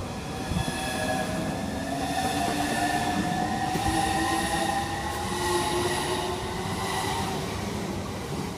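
Southeastern Class 395 Javelin electric multiple unit pulling out of the station. Its traction motors whine in several tones that climb slowly as it accelerates away, over a low rumble.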